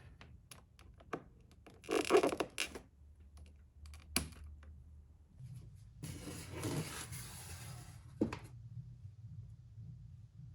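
Handling noise: scattered sharp clicks and two rustling, scraping bursts, the loudest about two seconds in and a longer one around the middle, over a low steady hum.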